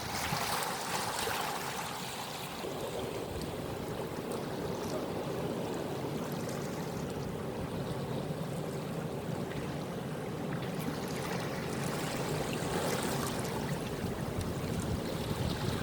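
Steady rushing and splashing of moving water.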